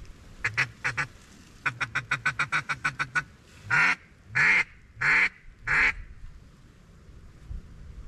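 Duck call blown in a blind to bring in passing ducks: two short quacks, a quick run of about a dozen short chattering notes at about eight a second, then four long, loud quacks.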